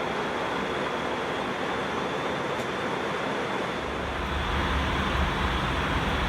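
Airbus A321 cabin noise in flight: a steady rush of air and engine noise. About four seconds in, a deeper low rumble comes in and the noise grows a little louder.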